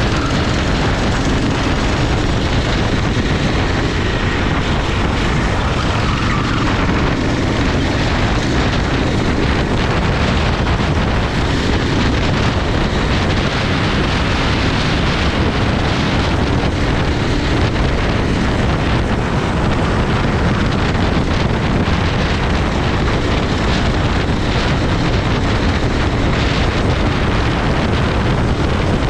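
Racing kart engine running at speed under steady load, heavily masked by wind noise on the microphone.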